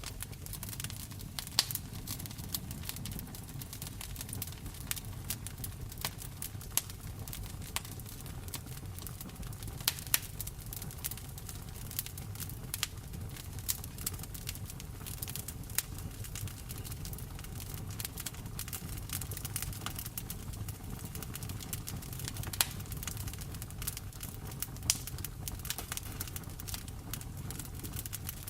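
Fireplace wood fire crackling, with frequent sharp pops, a few much louder than the rest, over a low steady rumble.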